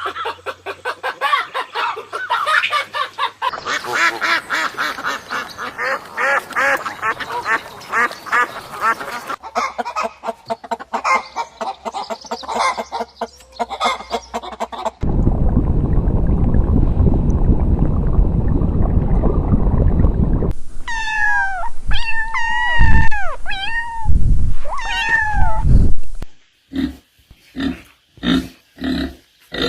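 Farm animal calls in a string of short clips that change abruptly several times. First come rapid repeated calls, then a stretch of loud noise in the middle, then a handful of calls that rise and fall in pitch, then short evenly spaced calls near the end.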